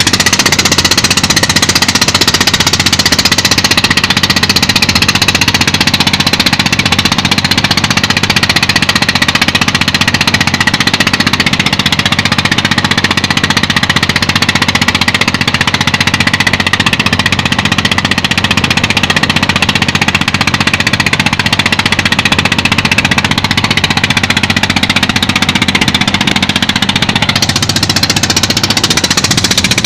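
Fishing boat's engine running steadily with a fast, even pulsing beat.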